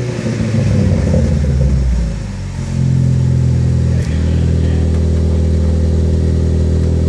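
Turbocharged four-cylinder Ford ST engine running through an Injen aftermarket exhaust with the stock downpipe. It comes down off a rev, then settles into a steady exhaust drone, with a sharp click about four seconds in.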